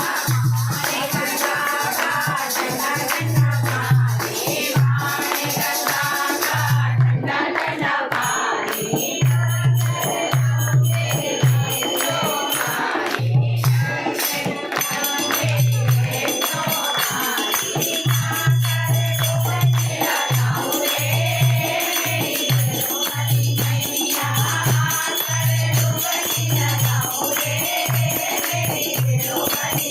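A group singing a Hindi devotional bhajan to the goddess, over a steady beat of low drum strokes and jingling hand percussion.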